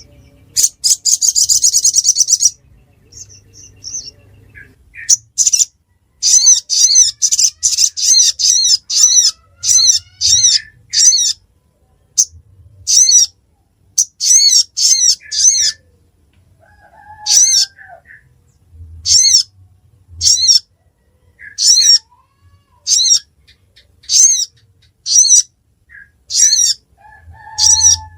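A small songbird, the Indonesian 'sogon', calling: a fast, high trill, then a long series of short, sharp, high chirps, close together at first and slowing to about one a second. A few fainter, lower calls sound now and then underneath.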